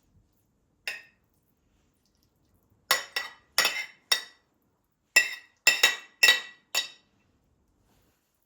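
Glass or ceramic pieces clinking against each other: one light click, then eight sharp, ringing clinks in two runs of four.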